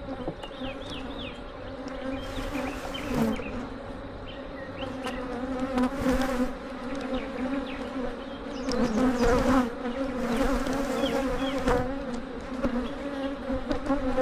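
Honeybees buzzing around an open hive: a steady, pitched drone with occasional short knocks. The colony is agitated and defensive, its bees stinging the beekeeper's gloves.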